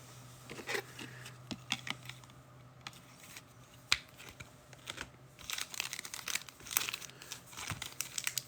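Trading-card packs crinkling and rustling as they are handled, with scattered light clicks and taps that grow busier in the second half.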